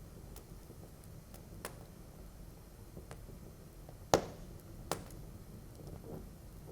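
Wood fire in a fireplace crackling: scattered small clicks over a low, steady rumble, with one sharp, loud pop about four seconds in and a smaller pop just under a second later.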